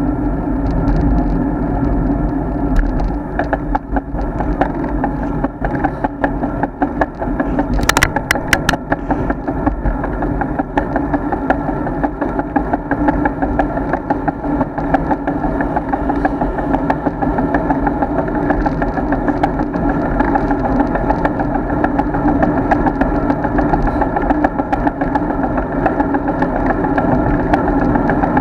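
Steady riding noise of a road bike picked up by a bike-mounted action camera: a constant droning hum of tyres and wind with small ticks from the road surface, and a quick cluster of sharp clicks about eight seconds in.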